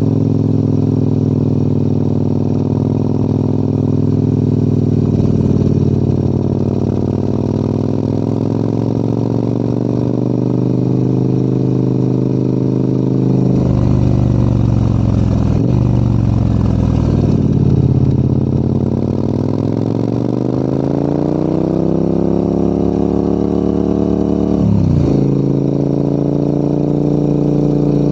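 Adventure motorcycle's engine pulling uphill, its revs climbing steadily, then dropping suddenly about halfway through. The revs dip and climb again, with a quick sharp dip near the end, as the rider changes gear and works the throttle.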